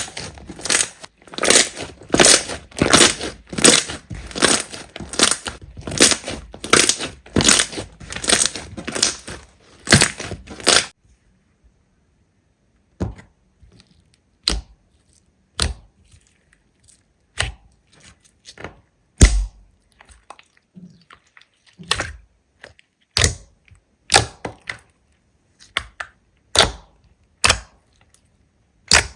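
Slime being squeezed and pressed by hand: dense crackling and crunching for about the first eleven seconds, then separate sharp pops about once a second.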